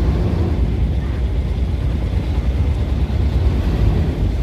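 Ferry engine running with a steady low drone.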